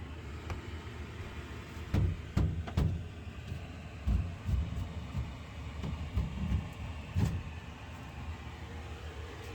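Irregular knocks and thuds of demolition work, about eight hits starting about two seconds in and stopping near the end, over a steady low drone.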